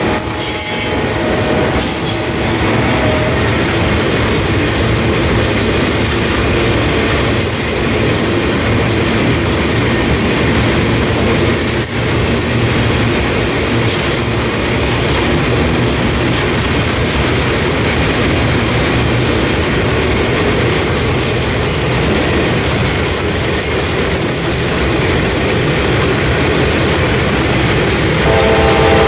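A train rolling past at close range: steady wheel-on-rail noise with clickety-clack and intermittent high-pitched wheel squeal. A horn sounds near the end.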